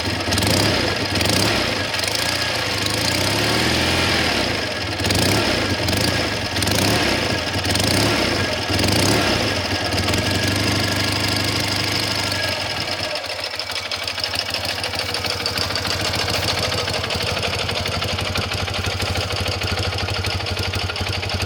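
BMW R100GS air-cooled boxer twin running through a stainless-steel aftermarket muffler. The throttle is blipped several times in the first ten seconds or so, then the engine settles to a steady, evenly pulsing idle.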